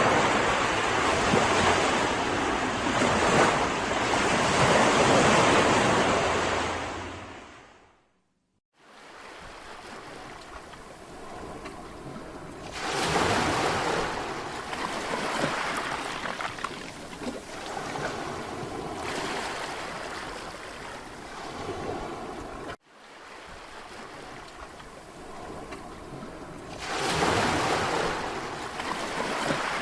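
Mediterranean sea waves breaking and washing up on a beach, swelling and ebbing every several seconds. The surf fades out to a moment of silence about a third of the way in, and cuts off abruptly for an instant later on before the waves resume.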